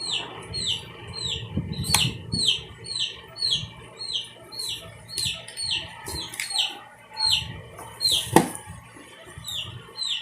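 A bird chirping over and over, short falling chirps about two a second. Two sharp knocks cut across it, the louder one about eight seconds in.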